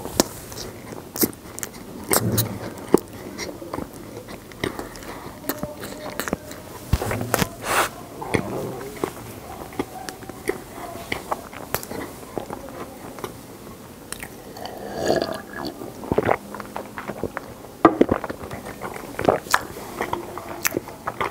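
Close-miked mouth sounds of a person chewing a mouthful of Oreo-and-whipped-cream icebox cake: wet smacks and soft crunches of cookie, coming as irregular clicks.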